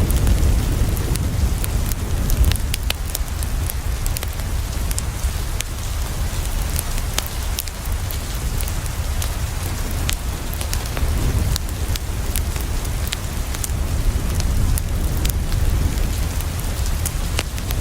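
Steady rain falling against a window, with sharp pops and crackles of a wood fire scattered through it and a constant low rumble underneath.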